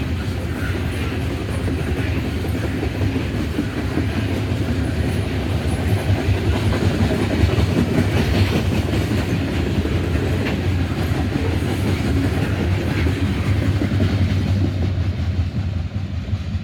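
Loaded coal train's cars rolling past: a steady rumble of wheels on rail with clicking over the rail joints.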